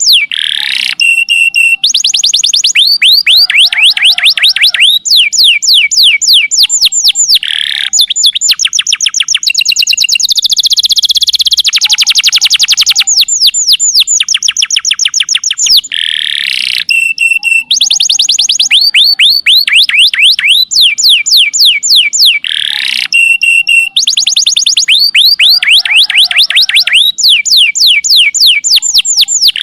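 Domestic canary singing a long, loud song of rapid high trills and rolling phrases with hardly a pause, the sustained 'nembak panjang' style of song. The same run of phrases comes round again about halfway through.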